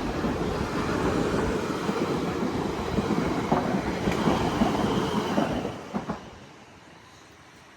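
South Western Railway passenger train passing close by, a steady rumble with the wheels clattering on the rails. Two sharp clacks about six seconds in come as the last wheels go by, and then the noise drops away quickly.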